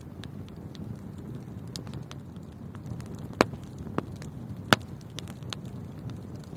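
Wood fire in a fireplace crackling over a low, steady rumble of burning, with scattered small pops and two louder sharp pops about three and a half and nearly five seconds in.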